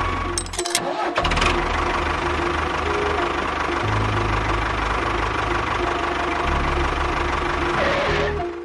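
Engine running steadily with a low pulsing hum, cutting out briefly about a second in and shifting in level a few times before fading near the end.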